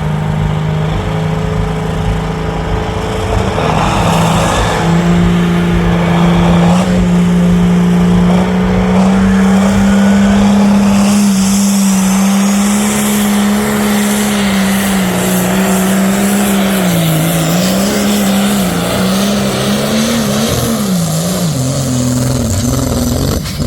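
John Deere 8430 pro stock pulling tractor's diesel engine running hard through a pull. Its high, steady note climbs about five seconds in and holds, then wavers up and down for the last several seconds as the engine labours under the sled's load.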